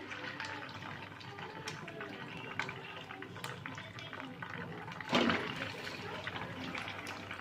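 Water running and splashing, with scattered clicks and clatter, and a louder surge about five seconds in; a voice is heard at times.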